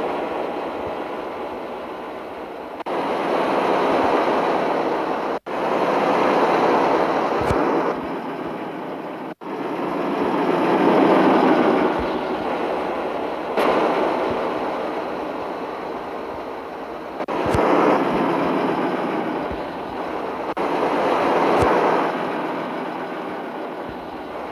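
Mitsubishi Fuso truck on the road: a heavy rushing noise that swells and fades several times, broken by two brief dropouts and abrupt changes of tone where clips are cut together.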